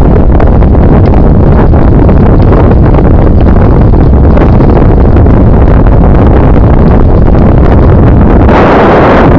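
Heavy wind buffeting on the microphone of a camera riding on a moving bicycle: a loud, steady rumble with no distinct tones.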